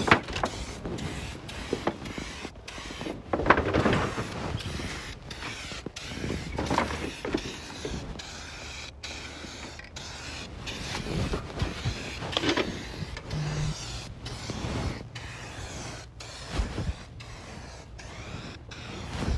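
Rust-Oleum Turbo Can aerosol spray paint hissing in intermittent bursts as the nozzle is pressed and released.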